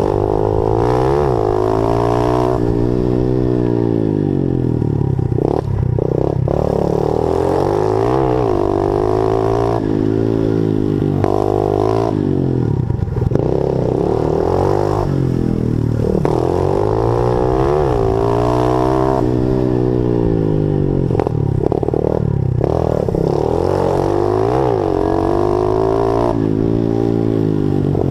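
Honda 50cc pit bike engine revving up and dropping back over and over while being ridden around a dirt track, its pitch climbing and falling every few seconds.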